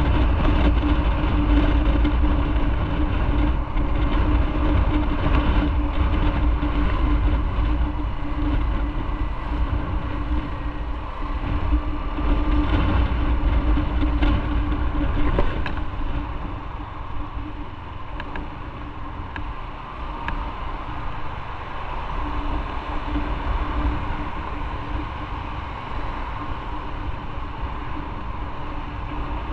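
Motorcycle under way, recorded from the bike: the engine runs with a steady tone over a heavy wind rumble. It eases off a little past the halfway point, then picks up again.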